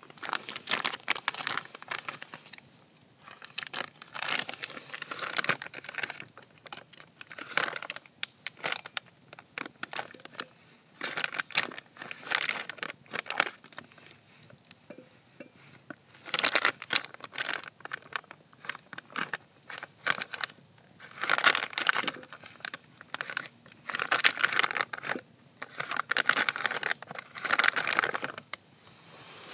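Crinkling and crackling in irregular bursts of a second or two each, with short pauses between them.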